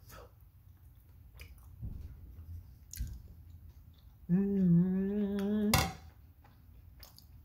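Eating sounds from a crisp cheese tostada: scattered faint chewing clicks and soft thumps. About four seconds in comes a hummed 'mmm', held on one pitch for about a second and a half and ending in a sharp click.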